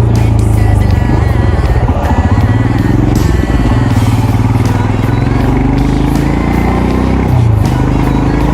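Royal Enfield Himalayan's single-cylinder engine and exhaust running as the bike is ridden. The engine note rises and falls a little with the throttle.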